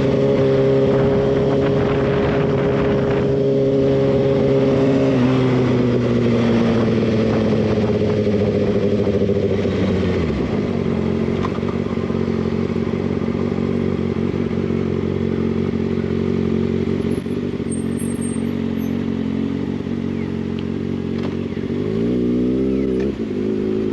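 Motorcycle engine running at a steady speed, then dropping in pitch over several seconds as the bike slows and holding a lower steady note. Near the end it revs up and down a few times.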